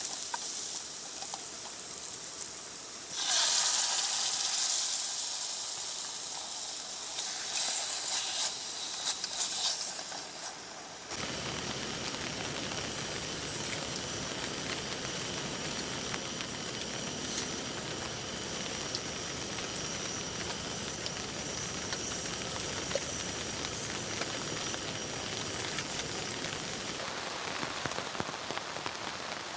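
Food sizzling in a hot pan, swelling loudly about three seconds in and again a few seconds later. About a third of the way through it cuts to steady rain falling.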